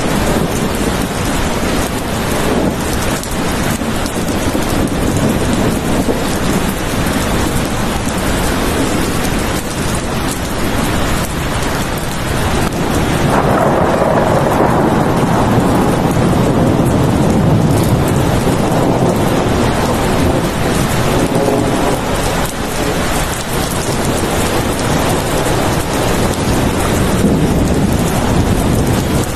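Steady, heavy rain falling, with a long rolling rumble of thunder that swells in a little before halfway and fades over several seconds.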